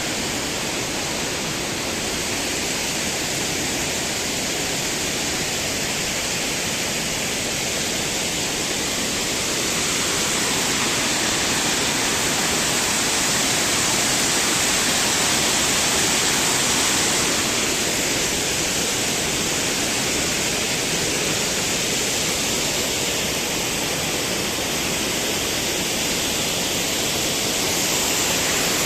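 Steady rush of flowing water, a constant hiss-like roar that swells slightly in the middle.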